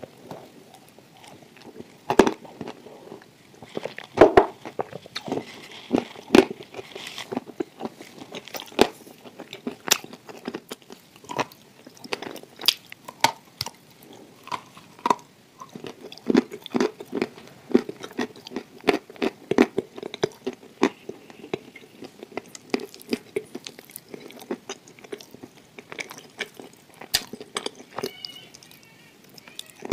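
A person biting and chewing crumbly, crunchy chunks close to the microphone: irregular sharp crunches and clicks, with a stretch of steadier, denser chewing in the middle.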